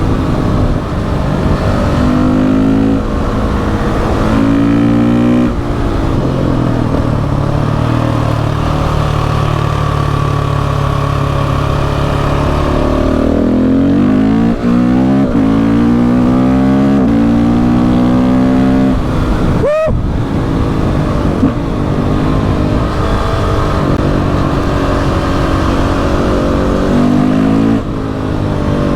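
KTM 690 SMC R supermoto's single-cylinder engine pulling hard under way, its pitch rising through each gear and dropping back at every shift. A run of quick upshifts comes about halfway through, and the sound cuts out briefly about two-thirds of the way in.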